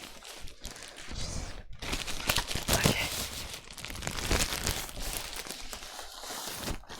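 Cardboard box and plastic packaging being handled and pulled open: a busy run of crinkling, rustling and small knocks, loudest in the middle.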